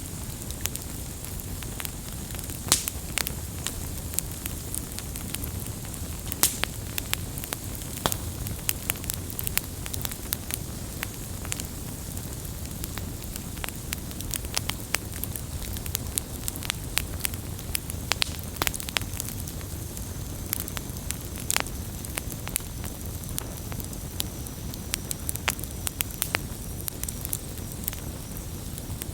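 Wood campfire burning, with a steady low rumble and frequent sharp irregular crackles and pops.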